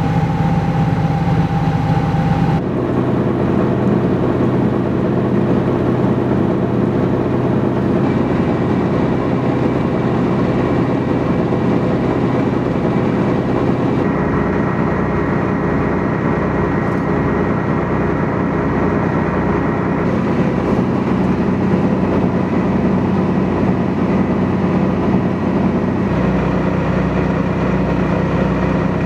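Sailboat's engine running steadily while motoring under way, a constant drone whose pitch shifts abruptly several times.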